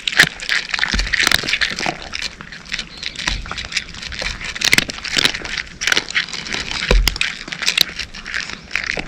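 Cats crunching dry kibble: rapid, irregular, crisp crunches overlapping one another, with a few dull low bumps.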